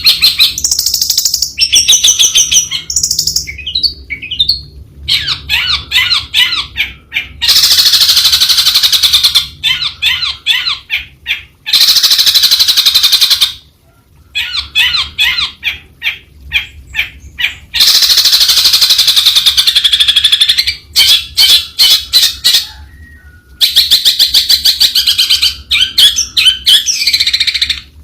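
Long-tailed shrike singing loudly in long, rapid phrases of quickly repeated notes, broken by a couple of short pauses.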